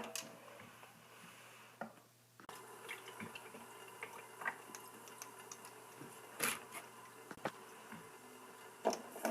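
Water dripping and trickling as tablespoons of water are measured out at a kitchen sink, with a few sharp, light clicks.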